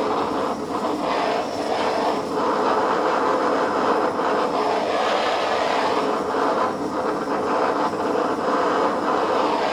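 Blowtorch flame running steadily, a continuous rushing noise with slight flicker, as it is played on pellet-stove ash that does not catch fire.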